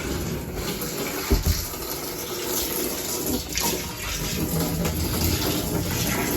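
Water gushing from a hose into a boat's empty freshwater tank, a steady rushing pour, on the tank's first fill. A single knock about a second in.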